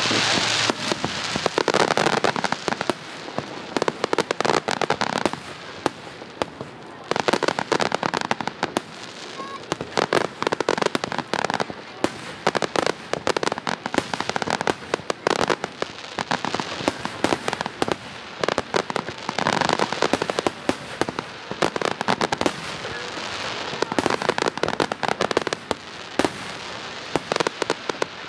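Aerial fireworks going off in a dense barrage: many sharp bangs and crackles in quick succession.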